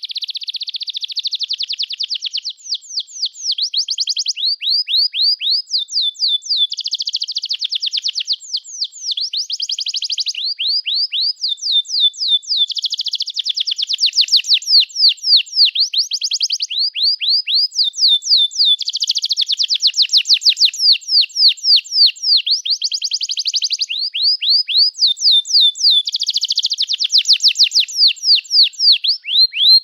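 Domestic canary singing a long, unbroken song. Dense, fast trills alternate with runs of quick sweeping chirp notes, several a second.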